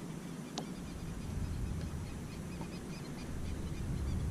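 A dusk chorus of small animals calling, with many short chirps repeating steadily over a low rumble, and a single sharp click about half a second in.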